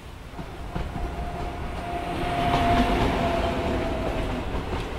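Express passenger train passing on the adjacent track, heard from a moving train: a dense rumble and clatter of coaches over the rails that swells to its loudest about halfway through. A thin steady high tone rises and falls away with the passing.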